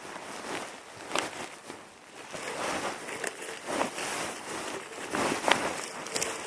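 Dry kindling wood being worked and handled: irregular knocks, snaps and scraping.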